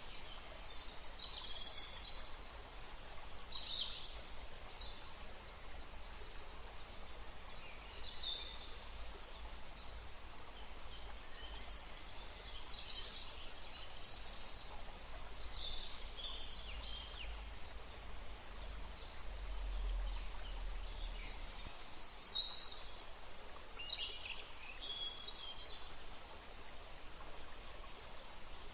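Woodland ambience: small birds calling and singing in short high notes, many times and overlapping, over a steady background hiss. A low rumble underneath stops about three-quarters of the way through.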